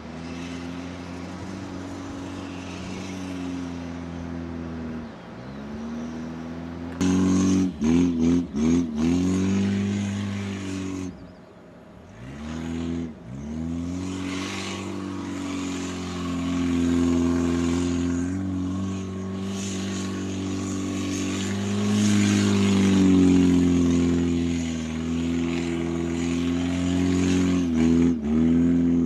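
Toyota 4K 1300cc four-cylinder engine of a Corolla-based beach buggy revving hard, its pitch rising and falling as it spins and slides on sand. Several quick rev blips come about seven seconds in and again near the end, with a brief lift off the throttle around twelve seconds.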